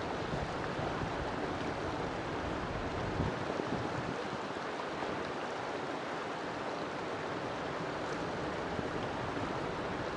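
River water flowing and babbling in a steady rush.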